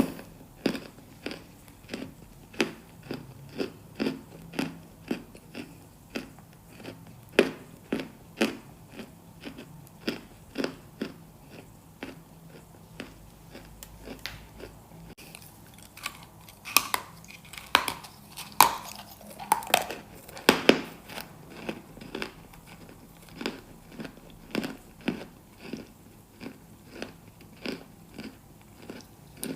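Close-miked chewing of something hard and crunchy, steady crunching chews about twice a second, with a few louder crunches a little past halfway.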